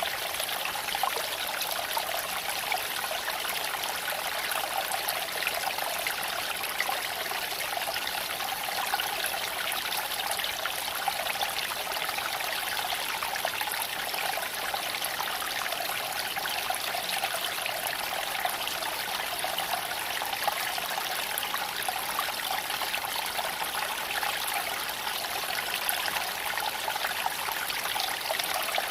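Shallow creek flowing over stones: a steady babbling and trickling of water, with small irregular splashes.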